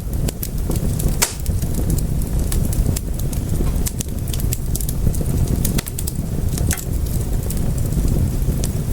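Wood fire crackling, with frequent sharp irregular pops and snaps over a low, steady rumble of the flames.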